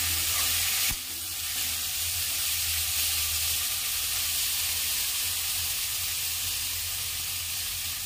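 Potato pieces, grated paneer and spice masala sizzling steadily in hot oil in a kadhai as they are fried after mixing, an even hiss throughout.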